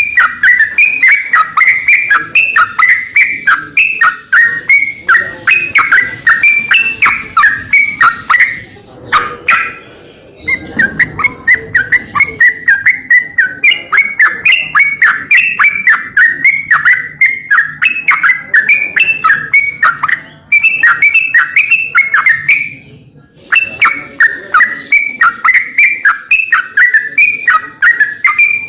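Crocokan songbird singing a loud, fast string of quick chirps in an unbroken chatter, pausing twice for a second or two, as played in a masteran training recording for songbirds.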